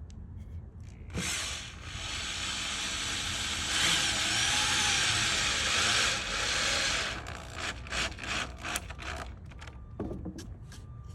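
Power drill driving a screw into wood for about six seconds, its motor pitch wavering under load, followed by a few clicks and knocks.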